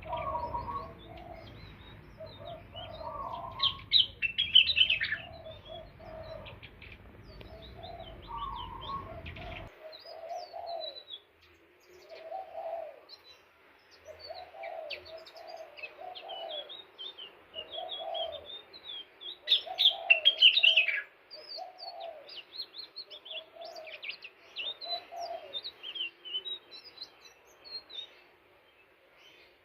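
Indigo flycatcher (sikatan ninon) song: thin, high chirping and twittering phrases, louder in two bursts. A lower call repeats about once a second beneath them, and a low background hum cuts off suddenly about a third of the way in.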